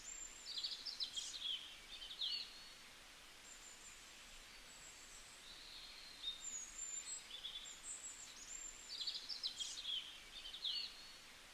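A songbird singing high, quick chirping phrases, the same phrase heard twice (near the start and again near the end), with softer chirps between, over faint outdoor background noise.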